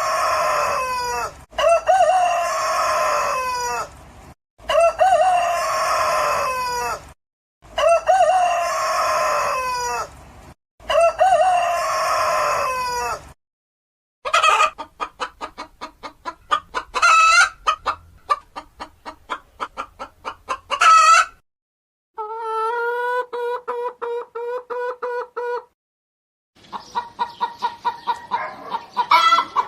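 A rooster crowing five times in a row, each crow a couple of seconds long with short gaps between. Then chickens clucking in quick runs, with one held, steady call about two-thirds of the way in before the clucking starts again.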